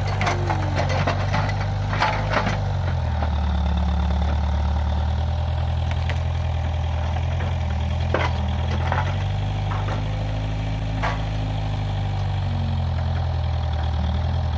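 Case 580G backhoe loader's engine running steadily, its pitch dropping a few seconds in and rising again later as the load changes, with a few sharp knocks from the machine working.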